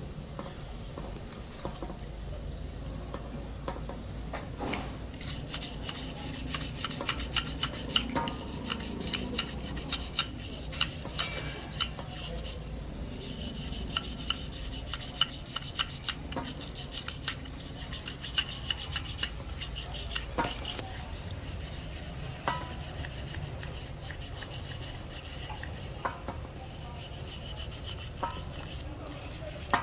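Hand work on truck brake servo parts: scraping and rubbing on metal with frequent small clinks and taps, over a steady low hum.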